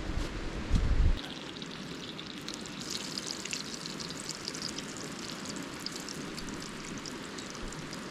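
Bacon sizzling and crackling in a skillet, the crackle getting busier about two and a half seconds in. A low rumble in the first second.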